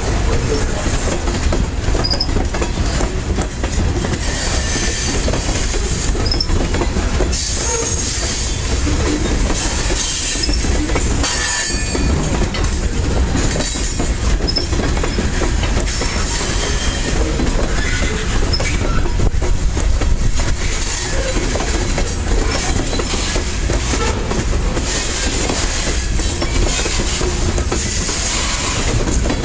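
A long freight train's cars rolling past at track side: a steady rumble with wheels clacking over rail joints and short, high wheel squeals here and there.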